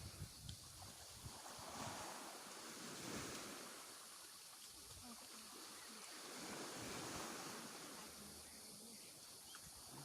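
Sea waves washing on a shore, the surf swelling and fading every few seconds.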